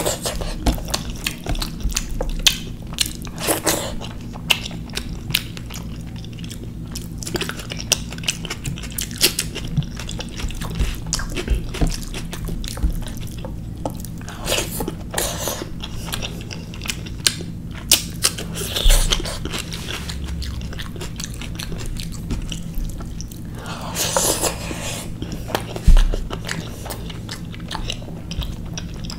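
Close-miked chewing and wet mouth sounds of a person eating rice and curry by hand: irregular lip smacks, clicks and squelches, a few louder bursts along the way. A steady low hum runs underneath.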